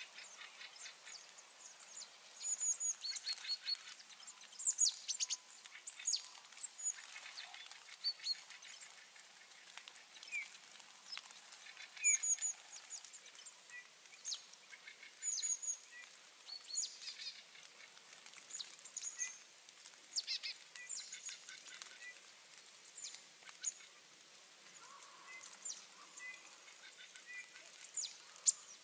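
Small songbirds in a flock chirping, many short high-pitched calls overlapping at irregular intervals.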